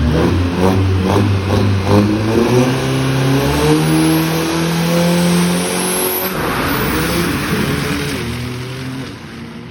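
Turbocharged Pro Truck drag-racing pickup accelerating flat out down the strip, the engine note climbing and dropping back at each of several gear changes, then fading as the truck runs away.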